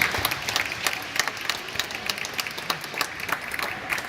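Scattered applause: many separate hand claps, thinning and growing quieter.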